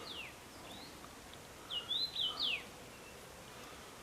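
A songbird calling outdoors: short high notes that slide down in pitch, a few at the start and a quick phrase about two seconds in, over a faint steady hiss of outdoor background noise.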